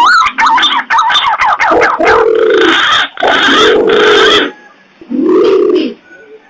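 Pigeon lure calls: green pigeons (punai) giving quick rising and falling whistled notes, with imperial pigeons (pergam) giving deep hooting coos about a second long, repeated several times. The calls thin out in the second half.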